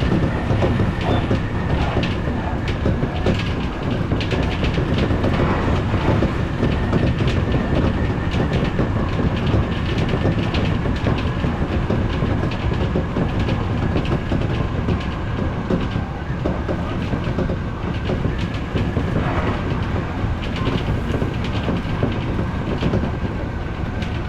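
Odakyu electric commuter train running at speed on the Enoshima Line, heard from on board: a steady rumble with many short rail clicks and a thin, steady whine.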